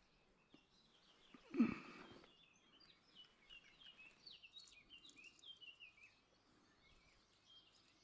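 A small bird singing a quick run of high chirps and trills, with one short louder burst of noise about one and a half seconds in.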